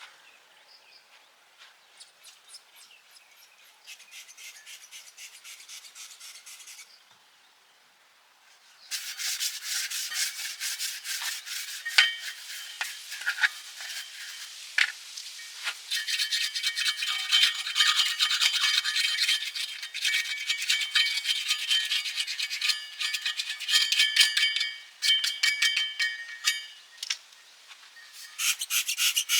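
Faint ticking, then about nine seconds in a loud, continuous abrasive rasping of rust being worked off steel begins. It runs on in dense rapid strokes with a steady whine underneath, dropping out briefly twice near the end.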